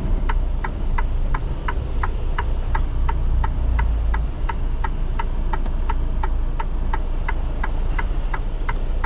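Semi truck's turn-signal indicator ticking steadily, about three ticks a second, over the low rumble of the diesel engine heard from inside the cab.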